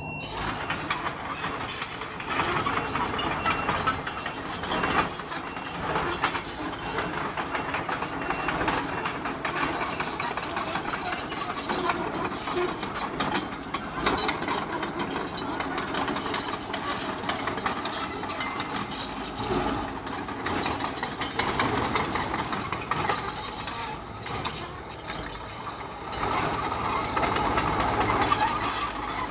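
Bulldozer's diesel engine running while the machine pushes and levels stone, with a dense clatter of many small knocks throughout, and getting somewhat louder near the end.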